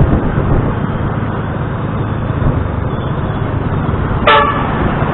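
Steady rumble of a moving scooter in town traffic, with one short vehicle horn toot about four seconds in.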